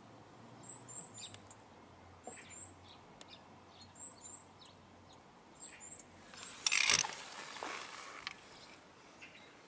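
Birds chirping in short runs of two or three quick, high chirps, repeated every second or two, with a brief rustling noise about seven seconds in.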